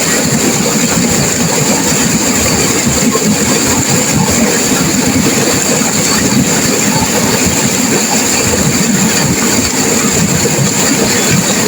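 Turbulent river water rushing and crashing, a steady loud rush with no let-up.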